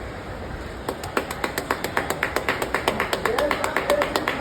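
Rapid, rhythmic hand slaps on oiled skin during a massage, about five sharp slaps a second, starting about a second in.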